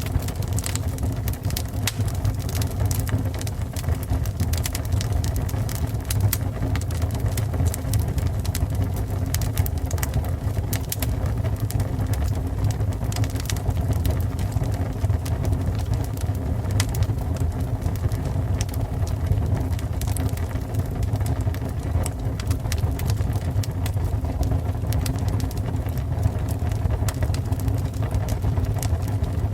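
Fire burning with a steady low rumble and frequent, irregular sharp crackles and pops.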